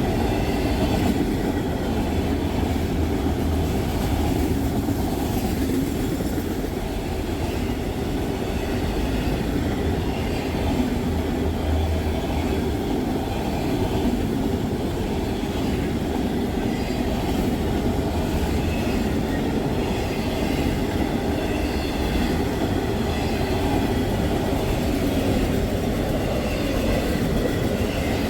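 Freight train of auto rack cars rolling past, a steady noise of wheels on rail with no change in level.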